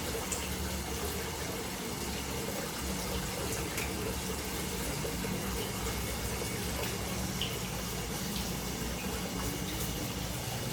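Water running and splashing steadily into a koi pond, a continuous even rush.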